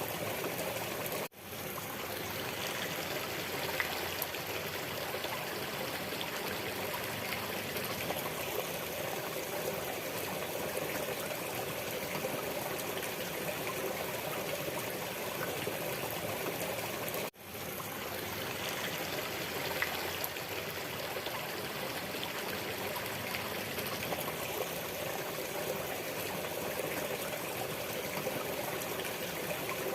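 A waterfall's water flowing and splashing steadily, with two very brief dropouts in the sound, about a second in and again around the middle.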